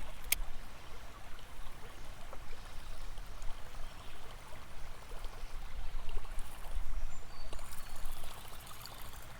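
Small river's water flowing and trickling steadily, with one sharp click just after the start.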